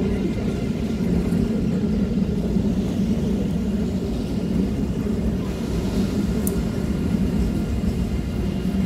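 Deutsche Bahn ICE 3 (class 403) high-speed train rolling past: a steady low rumble of wheels and running gear with a faint steady whine over it, and one brief high-pitched squeak about six and a half seconds in.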